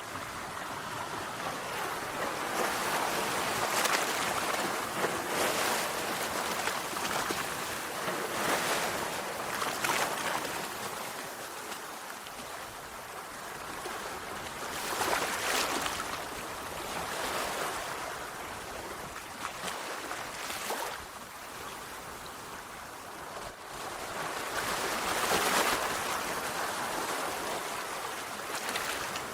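Sea waves breaking on a shore: a steady hiss of surf that swells and eases every few seconds, with louder surges about four, fifteen and twenty-five seconds in.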